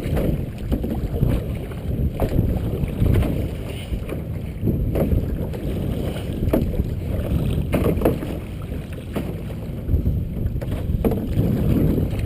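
Wind buffeting the microphone on a canoe on choppy lake water, with irregular short splashes and knocks against the hull, about eight in all.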